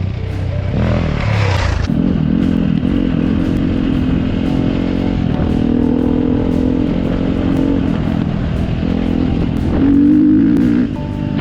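Dirt bike engine running under throttle while riding, its pitch rising and falling. It is loudest about ten seconds in, then drops away as the throttle is rolled off.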